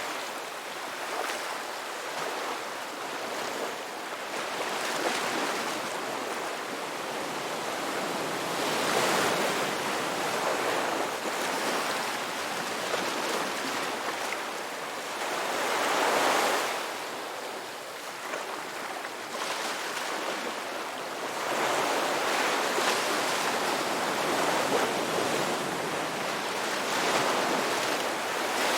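Ocean waves breaking and washing in, a steady hiss of surf that swells with each wave every few seconds, the biggest swells about 9 and 16 seconds in and again near the end.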